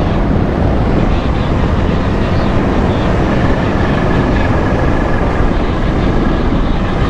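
Motorcycle riding noise: a steady rush of wind on the microphone with engine sound underneath, holding level throughout.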